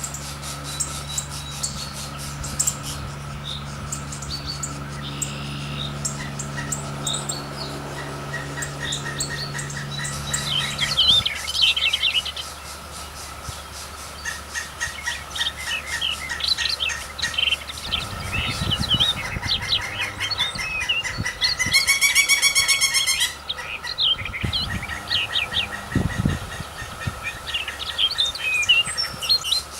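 Several birds chirping and calling over one another, with one louder, drawn-out call about two-thirds of the way through. A steady low hum underneath stops about a third of the way in.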